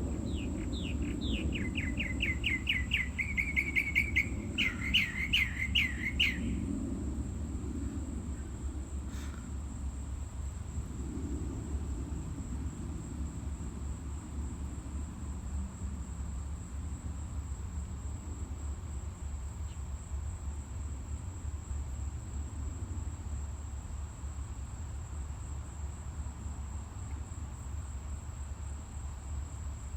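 A songbird singing a fast, rapid series of repeated down-slurred chirps for about the first six seconds, then falling silent. Under it, a steady thin high-pitched whine and a low rumble.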